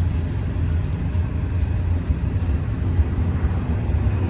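Double-stack intermodal container train rolling past at an even speed: a steady, low, humming rumble of wheels on rail with no breaks or knocks.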